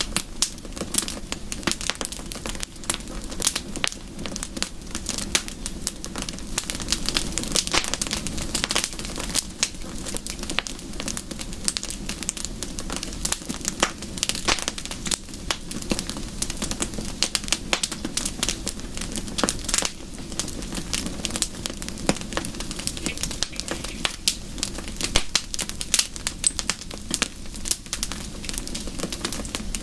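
Wood fire crackling, with frequent sharp snaps and pops over a steady low rush.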